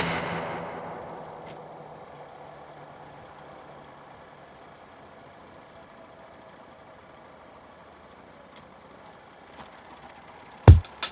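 Music fading out, then a faint, steady engine sound like a motorcycle idling. Near the end, loud sharp drum hits start the next piece of music.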